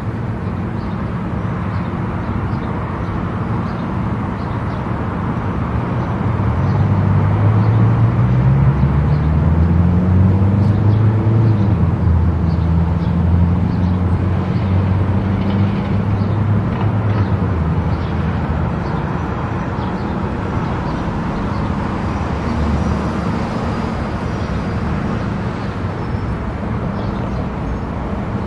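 Car driving on an expressway: steady tyre and road noise with a low engine hum. About a quarter of the way in, it grows louder and the engine tone rises in pitch, then holds steady before settling back.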